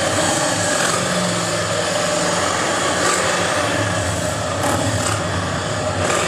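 Vehicle engines idling, a steady low drone over general background noise.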